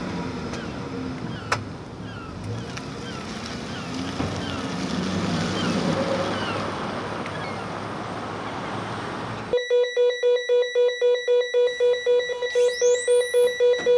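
V6 Dodge Charger with an aftermarket dual exhaust running at low revs under road and wind noise, settling after a rev. About nine and a half seconds in, it cuts abruptly to electronic music: a beeping synth tone pulsing about four times a second, with a rising sweep near the end.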